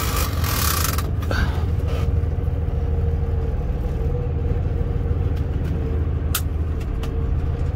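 Semi truck's diesel engine running steadily with a low rumble and a faint steady whine over it. There is a brief hiss in the first second and a single sharp click later on.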